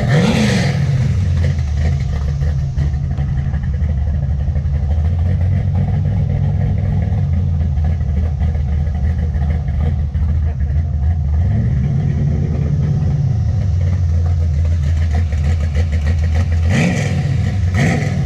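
Car engine idling steadily, with a brief rise and fall in revs about twelve seconds in.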